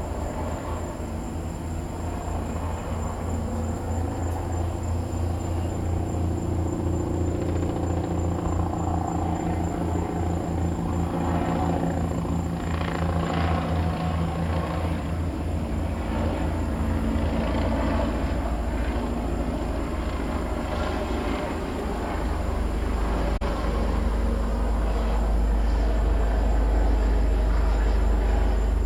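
Helicopter overhead, its rotor beating in a continuous low pulse that grows louder over the first few seconds, then evens into a steadier low drone near the end.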